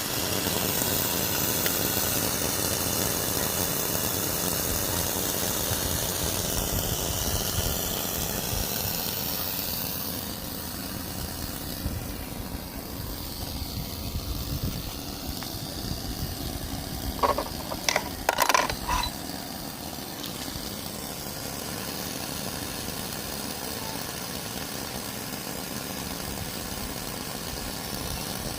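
5-inch gauge live steam locomotive running, with a steady low mechanical noise and a high steam hiss that is strongest in the first ten seconds. A brief cluster of sharp metallic clicks comes a little past halfway.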